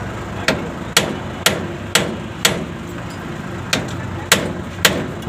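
Hammer blows during truck repair work, eight strikes in all: five evenly at about two a second, then three more after a short pause. A steady low hum runs underneath.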